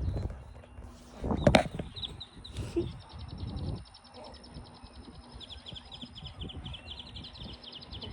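A fast, evenly spaced, high-pitched chirping trill from a small animal keeps going through most of the stretch over low rumbling noise, with one loud knock about a second and a half in.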